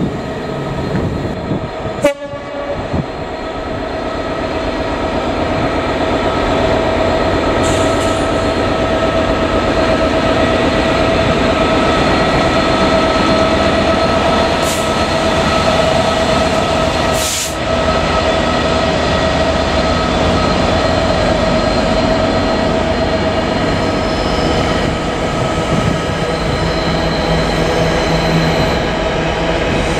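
GB Railfreight Class 66 diesel locomotive, with its two-stroke V12 engine, running past hauling a freight of flat wagons loaded with concrete sleepers: a loud, steady engine and wheel rumble building over the first few seconds. A steady high whine runs through the middle, and there is a sharp click about two seconds in.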